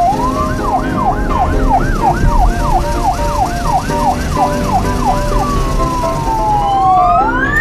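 Siren sound effect in a fast rising-and-falling yelp, about two swoops a second. Near the end it slows into one long fall, then rises.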